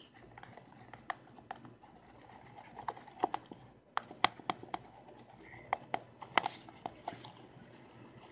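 Irregular sharp clicks and taps, a few a second, from slime being mixed and worked.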